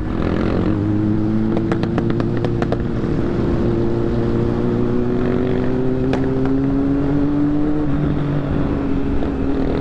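Motorcycle engine running under way, its pitch climbing slowly for several seconds, then dropping about eight seconds in. A few sharp clicks come in the first few seconds.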